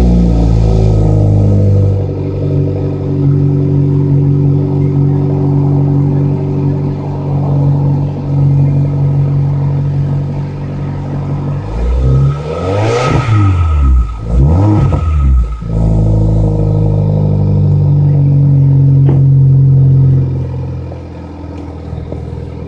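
2013 Kia Rio engine with a custom exhaust running at idle shortly after a cold start. About halfway through it is revved twice, the exhaust note rising and falling quickly each time, then it settles back to a steady idle. The sound gets quieter near the end.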